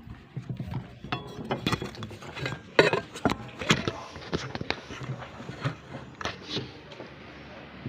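Spoons and forks clinking and scraping against plates and bowls during a meal, a series of irregular sharp clinks.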